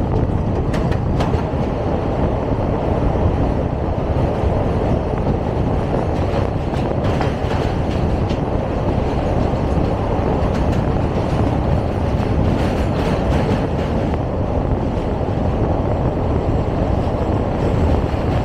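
Indian Railways express train running over a steel truss river bridge, heard from the open coach doorway: a loud, steady rumble of wheels on track with scattered sharp clicks.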